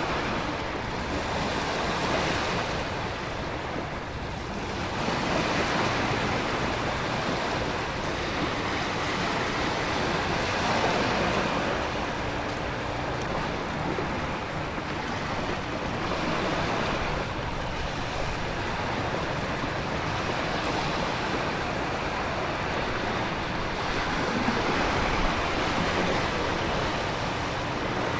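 Storm ambience of crashing ocean surf and wind with heavy rain: a dense, steady rush that swells and eases every few seconds, with no distinct thunder clap.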